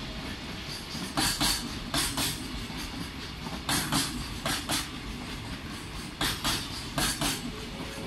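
Loaded container flatcars of a freight train rolling past at speed: a steady rolling noise broken by sharp wheel clacks over rail joints, coming in quick pairs and short clusters every second or so.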